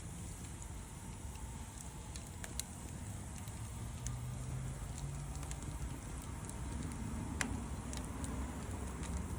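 Wood fire crackling, with scattered sharp pops over a low steady rumble; the loudest pop comes about seven seconds in.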